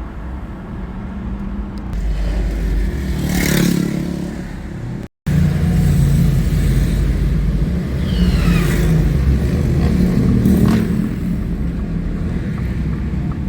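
Road traffic: a steady low rumble of car engines and tyres, with vehicles passing close by, one about three seconds in and another near the end. The sound drops out for an instant about five seconds in.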